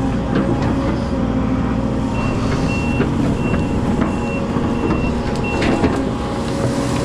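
Diesel engine of a hydraulic excavator running steadily with scattered knocks. From about two seconds in, its travel or reversing alarm beeps about six times, roughly one and a half beeps a second, then stops near six seconds.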